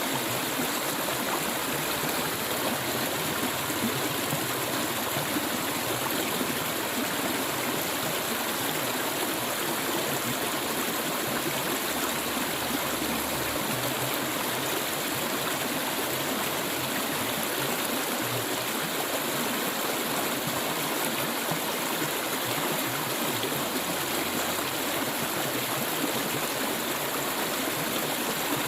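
Clear stream water flowing and burbling over stones, a steady rushing wash with no break.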